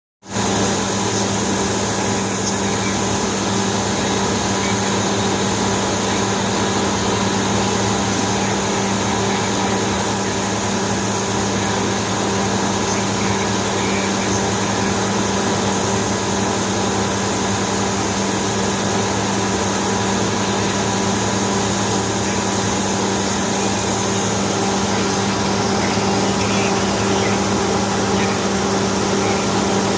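Borewell-cleaning machinery running steadily, a constant machine hum under a loud, even rushing noise as the borewell is flushed out.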